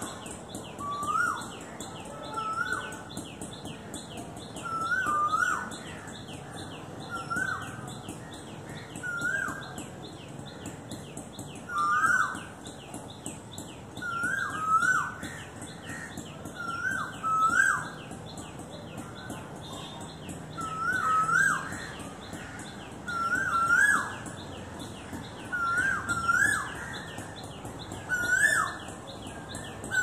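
The bird called akka kuruvi in Tamil calling from a tree: a short two-part call repeated about every two seconds, with a fast, steady, high-pitched chatter running underneath.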